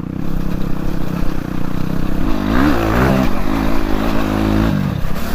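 Dirt bike engine running under way, revving up and easing back a couple of seconds in, then holding a steady pitch.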